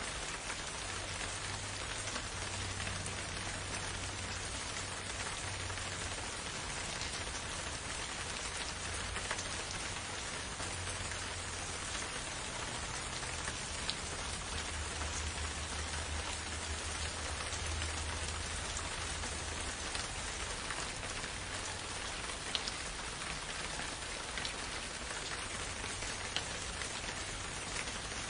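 Steady rain falling: an even hiss with scattered drop ticks, over a low rumble that swells and fades.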